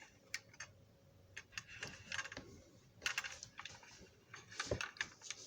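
Small plastic and metal parts of a Marx toy train locomotive being handled: scattered light clicks, taps and rattles, in short clusters about two, three and five seconds in.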